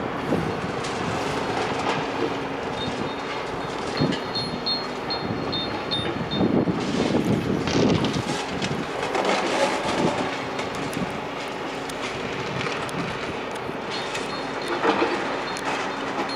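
Demolition machinery at work: a diesel engine running steadily under a continuous clatter and crunch of breaking masonry and rubble, loudest about halfway through.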